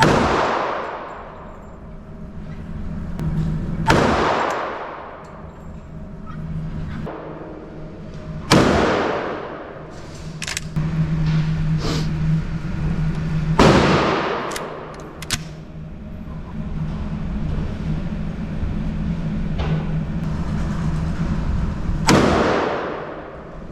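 Five gunshots a few seconds apart, each followed by a long reverberant ring-out in an indoor range, with a few sharp metallic clicks between them over a steady low ventilation hum.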